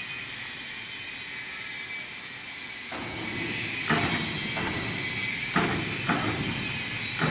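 Steady hissing factory noise that grows fuller about three seconds in, with a handful of sharp metallic knocks over the second half.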